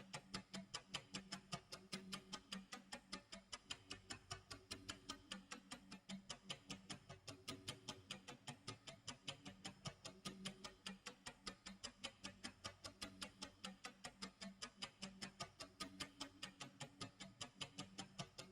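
Clock tick-tock sound effect: an even run of quiet, sharp ticks, about four a second, over a faint low hum.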